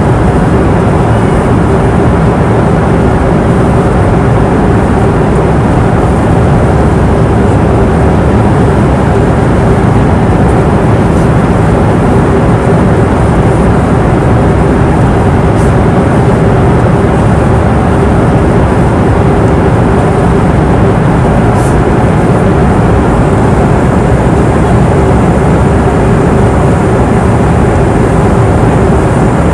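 Airliner cabin noise in flight: a steady, even rush of engine and airflow noise, heaviest in the low range, with a constant hum running through it.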